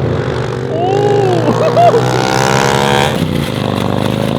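A car engine revving hard as the car pulls out of the lot. Its note climbs in pitch and then cuts off sharply about three seconds in.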